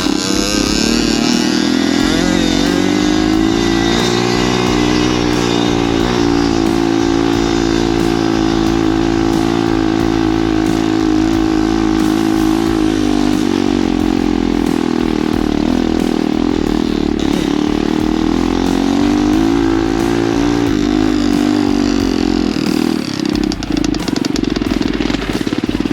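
Loud pit bike engine running while being ridden, its pitch rising and falling several times with the throttle.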